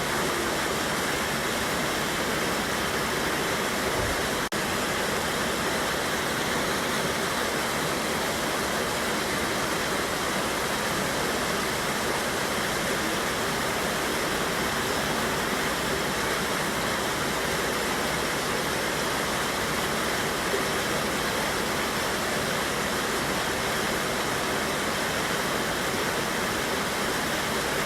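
A small waterfall on a Smoky Mountains river, the water rushing in a steady, even roar, with a momentary dropout about four and a half seconds in.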